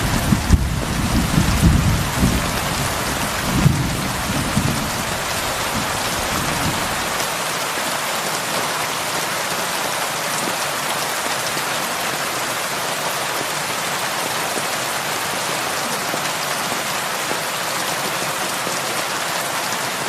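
Heavy rain falling steadily on a roof, an even hiss. A low rumble of thunder fills the first few seconds and dies away about five seconds in.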